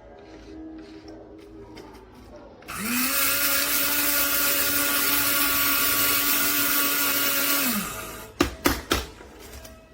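BLACK+DECKER One Touch blade coffee grinder's motor spinning up, running steadily with a loud whir and hiss for about five seconds, then winding down. Three sharp knocks follow near the end.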